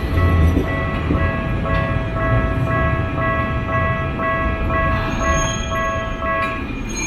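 An electronic chime melody of short notes plays over the low rumble of trams and street traffic, then stops near the end.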